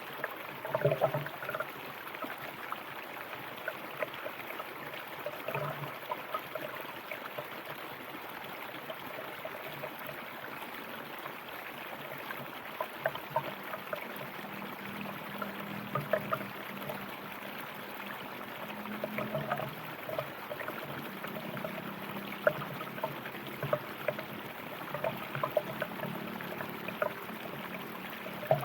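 River water flowing steadily over stones, with many small splashes and gurgles.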